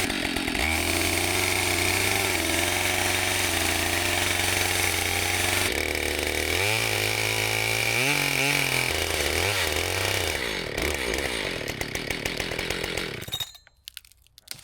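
New Husqvarna 572 two-stroke chainsaw cutting through downed timber, held short of full throttle while the engine is being broken in so the piston rings seat. The revs dip and climb a few times in the middle, and the saw cuts off near the end.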